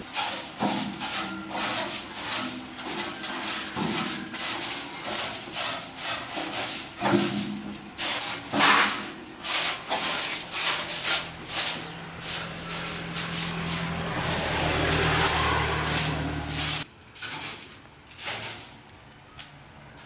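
A rapid, irregular series of knocks and scraping strikes, then something mechanical hums steadily for a few seconds and cuts off suddenly; a few last strikes follow before it goes quiet.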